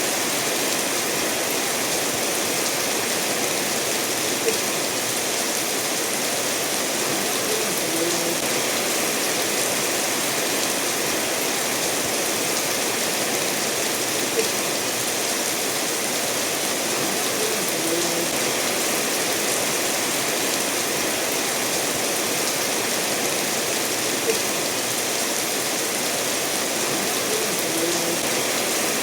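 Steady rainfall mixed with a stream running over stones, an even hiss with no let-up. A few brief drips stand out, recurring about every ten seconds.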